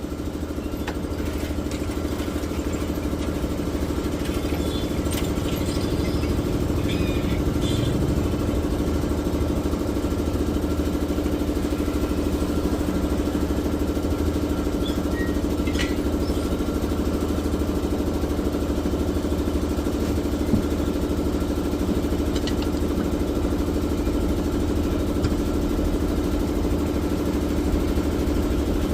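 An engine idling steadily and evenly, with a few faint metallic clicks in the first third.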